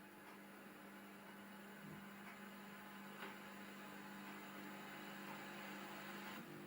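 Faint steady electrical hum with a low background hiss from VHS tape playback.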